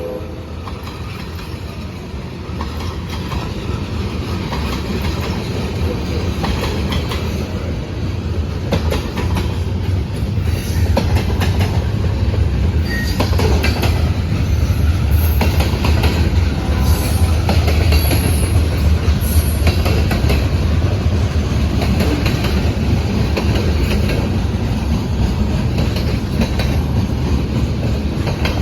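A long CSX mixed freight train rolling past at close range: a heavy low rumble with steel wheels clacking over the rail joints and brief high wheel squeals. It grows louder over the first half, then holds steady.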